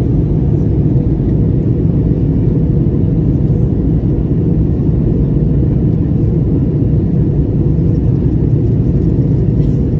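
Airbus A321neo jet airliner's engines heard from inside the cabin: a loud, steady rumble with a faint even whine above it.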